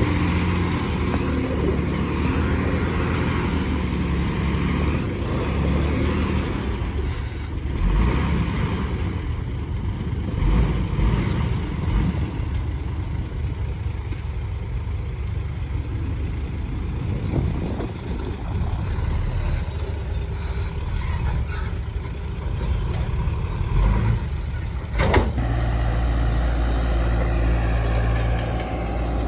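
Heavy diesel engine of earthmoving machinery running and working, its sound rising and falling with load. There are a few sharp clanks, the loudest about 25 seconds in, before it settles to a steady low idle near the end.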